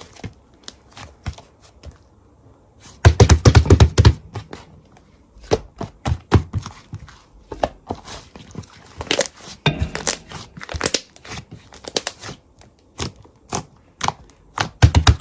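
Slime being squeezed and poked by hand, giving sticky irregular clicks and pops, with a loud rapid run of clicks about three seconds in.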